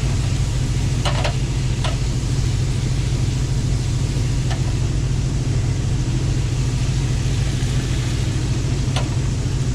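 Truck engine idling with a steady low drone, and a few light clicks about a second, two seconds, four and a half seconds and nine seconds in.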